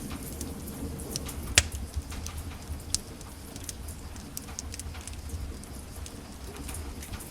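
Wood fire in a fireplace crackling, with irregular sharp pops (the loudest about one and a half seconds in) over a steady low rumble of the flames.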